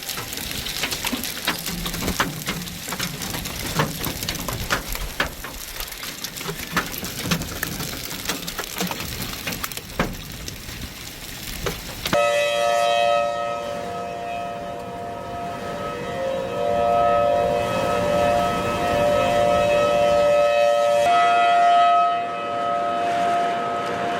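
Hailstones pelting down in a dense, irregular clatter of sharp hits. About halfway through, this cuts to an outdoor tornado warning siren sounding a steady, loud wail.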